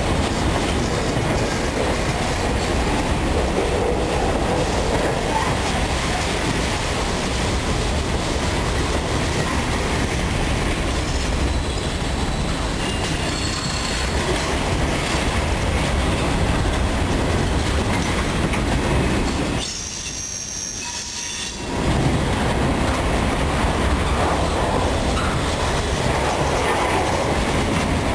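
Freight train of grain cars rolling past, wheels clicking over rail joints, with thin high wheel squeal at times. The sound drops off briefly about twenty seconds in, then returns.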